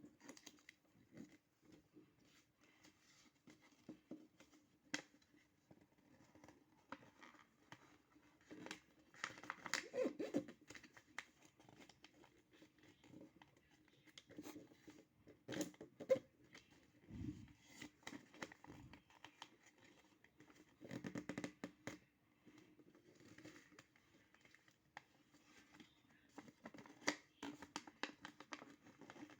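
A sheet of paper handled and folded by hand into a paper boat: faint, scattered rustling, crinkling and creasing sounds, denser in a few short spells.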